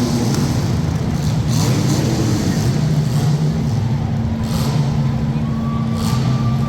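Engines of welded compact demolition-derby cars running hard and revving, with a few brief noisy hits about one and a half and four and a half seconds in.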